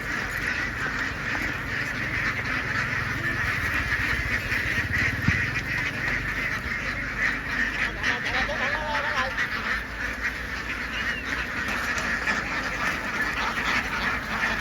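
A large flock of domestic ducks quacking all at once, a dense unbroken chorus of overlapping calls.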